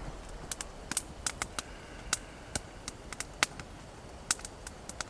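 Small campfire of wet wood crackling, with sharp irregular pops and snaps about three to four times a second; the wood is wet and mostly smoking.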